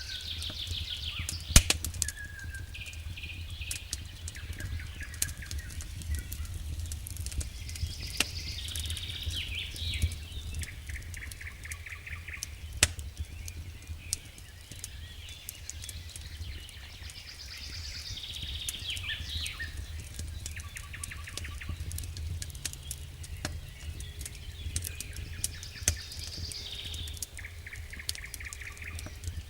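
Wood fire burning in a fireplace: a steady low rumble with scattered sharp crackles and pops, the loudest pop about a second and a half in. High, rapidly pulsed chirping trills come and go over it.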